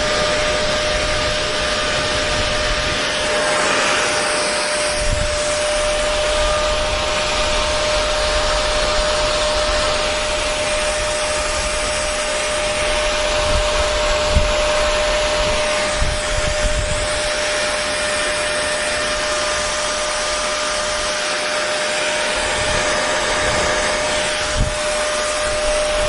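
Electric hair dryer running continuously: an even rush of blown air with a constant motor whine underneath and some uneven low rumble.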